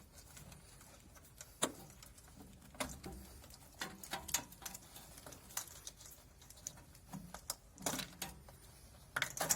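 Scattered light clicks and knocks, about eight in all at uneven intervals, from parts and tools being handled while a washing machine is taken apart.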